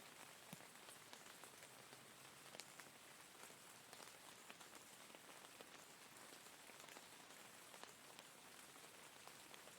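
Faint steady rain, with scattered drops ticking irregularly on a surface over a soft hiss of rainfall.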